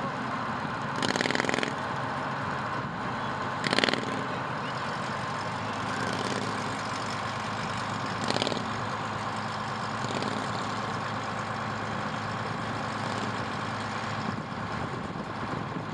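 Truck engine running steadily at parade pace, with three short, louder bursts about one, four and eight seconds in, the longest lasting under a second.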